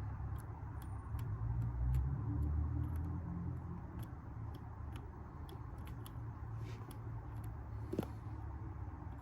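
2008 Toyota Camry engine being cranked on the starter without catching, a low steady rumble that swells for a couple of seconds, with faint regular ticking about two to three times a second and a sharp click near the end. The owner puts the no-start down to the spark plugs not firing.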